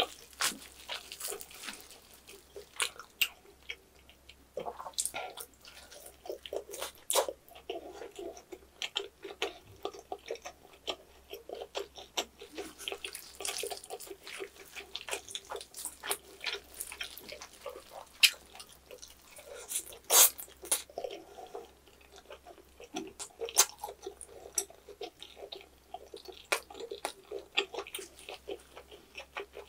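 Close-up wet chewing and mouth smacking of a person eating roast pork knuckle (Schweinshaxe), a steady run of short sticky clicks, with the meat being pulled apart by gloved hands.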